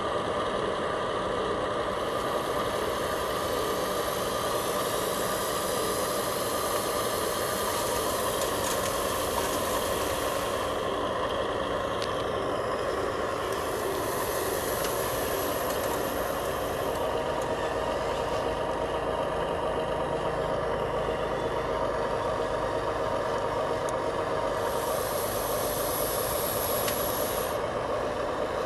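Remote-control metal bulldozer and dump truck running: a steady mechanical motor-and-gear sound with whining tones that shift in pitch, and a high hiss that cuts in and out a few times.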